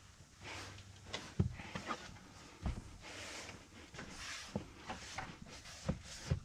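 A few separate light knocks and thuds, about one every second or so, over a faint background hiss.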